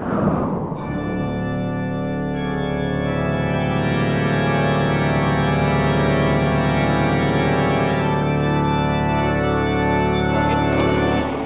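Music: sustained organ chords that change a couple of times, after a brief falling swoosh at the start.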